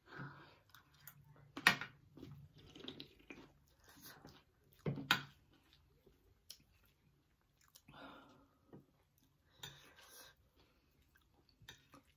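Close-up chewing of crunchy spicy puffed-rice chatpate and pakoras: soft wet mouth sounds and scattered crunches. There are two sharper snaps, about one and a half seconds in and about five seconds in.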